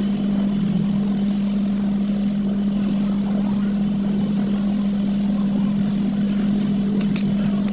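Steady machine hum at an even pitch, with a few sharp clicks near the end.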